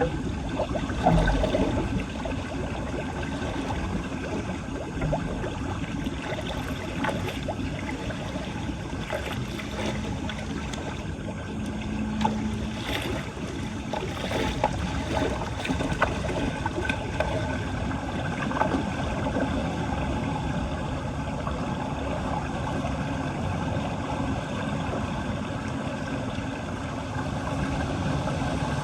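Floodwater running and gurgling steadily into a street storm drain, with scattered small knocks.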